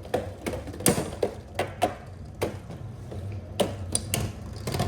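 Irregular plastic clicks and clacks from Beyblade X tops and launchers being handled.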